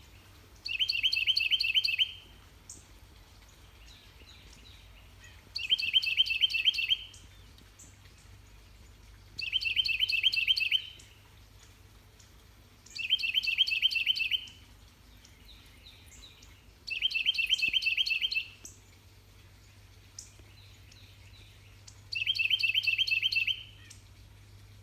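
Carolina wren singing: six loud bursts of its song, each a fast run of the same repeated note lasting about a second and a half, coming every four to five seconds, with a few faint chirps in between. The owner believes it is a male calling his mate.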